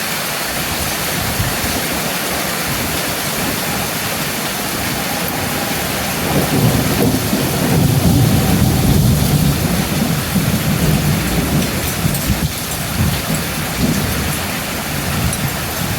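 Heavy rain pouring steadily during a thunderstorm, with a long low rumble of thunder building about six seconds in and dying away over the next several seconds.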